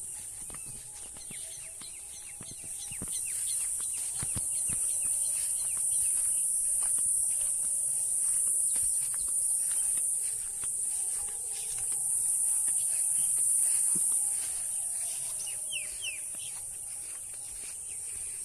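Insect chorus: a steady, shrill high-pitched drone, louder through the middle, with scattered bird chirps over it, including a couple of quick rising chirps near the end.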